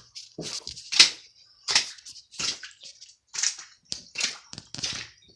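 Water sloshing and splashing in short, evenly paced bursts, about one every three-quarters of a second: steps going through shallow floodwater.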